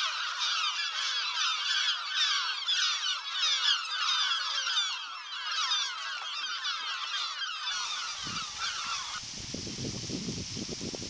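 A large flock of birds calling, with many short calls overlapping in a dense, continuous chorus that thins and stops about nine seconds in. Near the end, gusts of wind rumble on the microphone.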